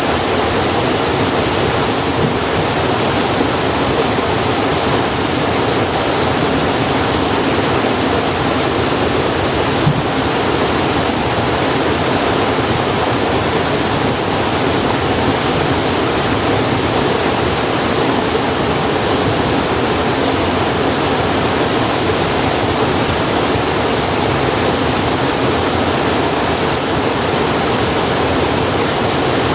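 Steady, even rushing of flowing water, like a mountain stream.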